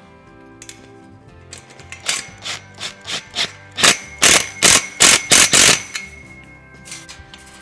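Background music, with a run of about a dozen short, loud bursts of noise from work on the metal kennel panels and their clamps, growing louder toward the middle and stopping about six seconds in.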